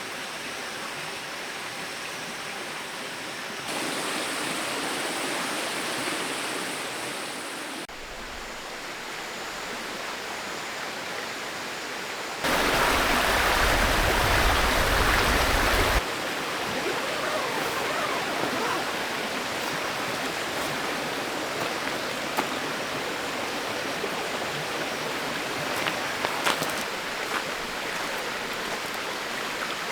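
Mountain stream rushing steadily over rocks, its level and tone jumping abruptly several times and loudest for a few seconds about twelve seconds in.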